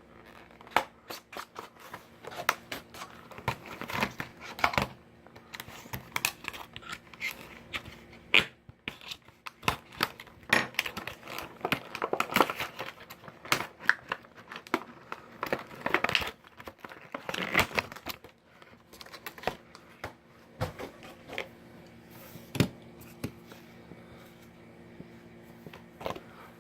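Diecast toy car's card-and-plastic blister packaging being handled and opened: irregular crinkling, tearing and scratching with many sharp clicks and taps.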